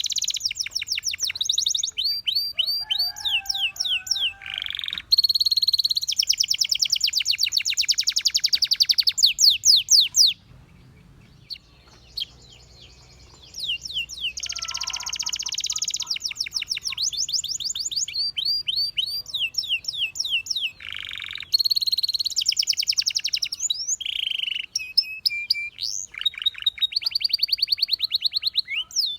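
Domestic canary singing: long, rapid, high trills and runs of repeated sweeping notes, broken by a pause of about three seconds midway.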